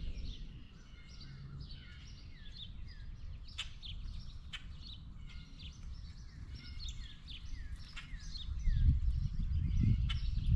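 Many small birds chirping and calling over one another in quick, short, falling chirps, with a few sharp taps. A low rumbling noise swells near the end.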